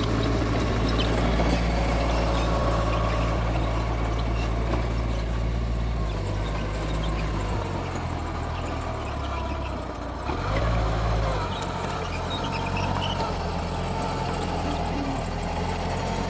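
Mitsubishi G2 bulldozer's diesel engine running under load while pushing soil, its note dropping about eight seconds in and picking back up about ten seconds in. Faint short high squeaks come and go over it.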